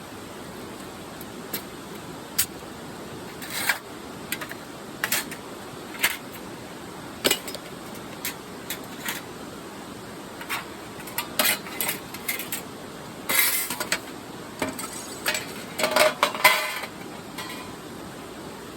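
Light metal clinks and clatter: irregular separate knocks and short rattling clusters of metal parts being handled, busiest in the second half, over a steady background hiss.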